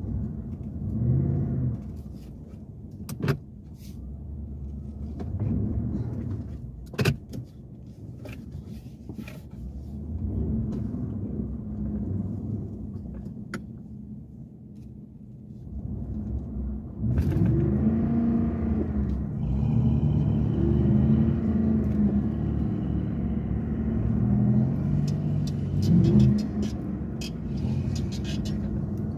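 V8 engine of an off-road vehicle driving through snow, its pitch rising and falling with the throttle, with sharp knocks and rattles over bumps in the first half. About 17 seconds in it gets louder and revs higher, spun up, with the note wavering.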